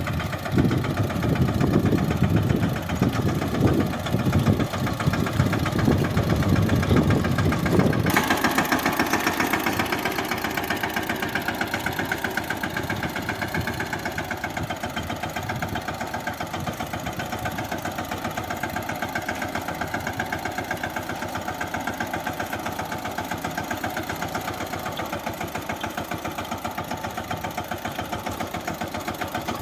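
Mahindra Yuvraj 15 hp mini tractor's single-cylinder diesel engine running steadily with a fast even beat. About eight seconds in the sound changes suddenly, becoming less heavy and brighter.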